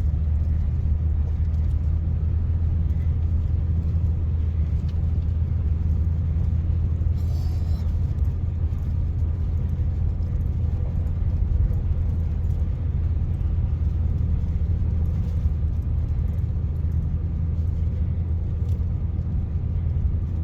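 Two-wheel-drive pickup truck driving up a gravel road, heard from inside the cab: a steady low rumble of engine and tyres.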